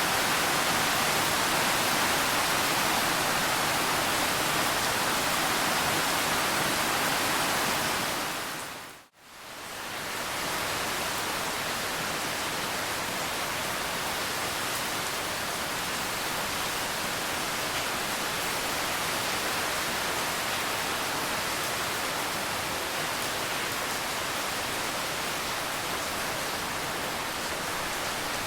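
Steady rain, an even hiss. About nine seconds in it fades out to a moment of silence and fades straight back in, a little softer afterwards, as at a join between two rain recordings.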